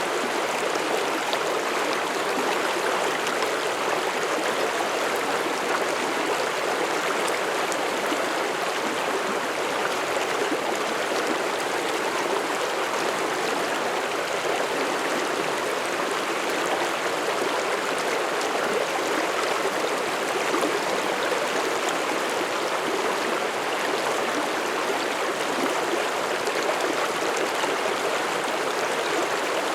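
Mountain stream flowing over rocks: a steady, even rush of water with fine splashing, unchanging throughout.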